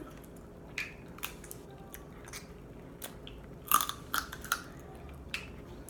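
A person eating boiled crab leg meat close to the microphone: scattered wet mouth clicks and chewing smacks, busiest about four seconds in.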